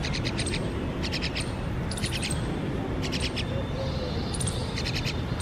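Mynas calling: short, harsh rattling bursts, each a quick run of clicks, repeated about once a second over a steady low background noise.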